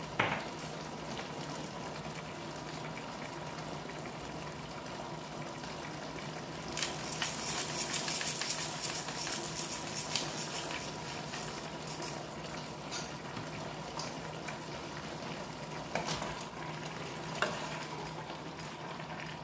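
Vegetables sizzling in a pot on the stove over a steady low hum, the crackling sizzle swelling loud for a few seconds in the middle. A few light clicks sound near the start and near the end.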